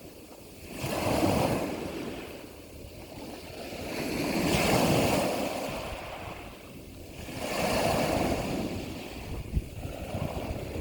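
Ocean waves washing in, three surges of rushing surf that swell and fade about every three and a half seconds.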